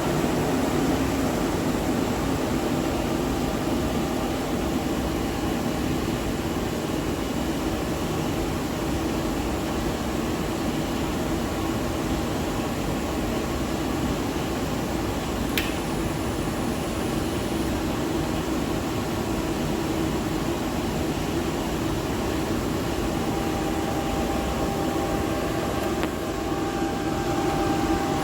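Freshly serviced plant-room gas boiler's burner firing steadily at low fire: a constant roar of burner fan and flame. A single sharp click about halfway through.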